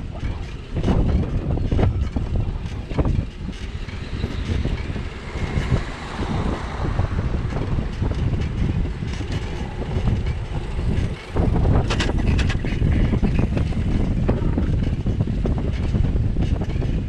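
Wind buffeting the microphone of a camera riding along on a bicycle, a low, fluttering rumble mixed with road noise. There is a brief lull just before a cluster of sharp clicks about twelve seconds in.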